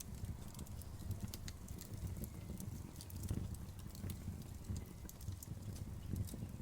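Wood fire burning, a low steady rumble with frequent sharp crackles and pops scattered irregularly through it.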